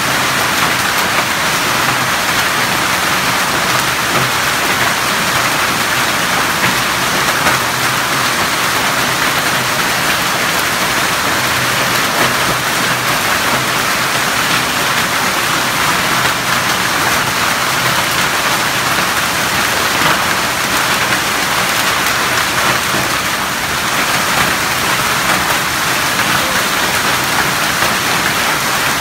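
Heavy rain mixed with hail falling steadily: a dense, even hiss of drops and hailstones pelting the ground and puddles.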